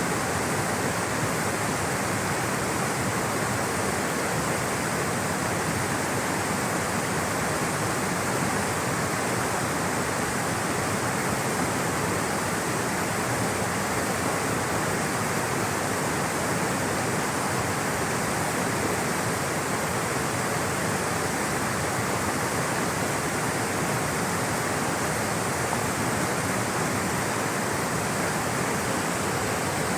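Rushing water flowing steadily, an even, unbroken roar with no changes.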